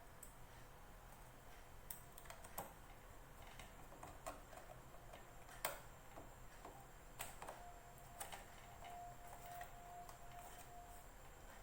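Faint, scattered clicks and light taps of a screwdriver, screws and small metal parts as an electric plastic bag sealer is bolted back together, with one sharper click about six seconds in.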